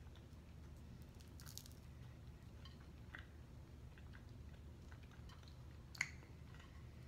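Faint mouth sounds of a person chewing food, with a few soft wet clicks and one sharper click near the end.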